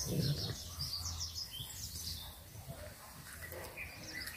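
Birds chirping, a quick run of high chirps in the first two seconds, over a low steady hum; a brief low thump comes right at the start.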